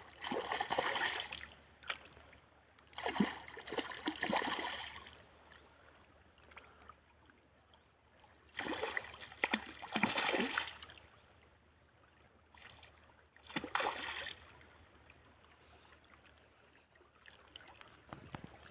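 Water splashing in short bursts, four main ones a few seconds apart, with quiet gaps between.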